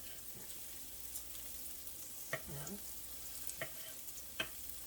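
Onions and peppers sizzling steadily in a frying pan, with a few sharp taps over the sizzle.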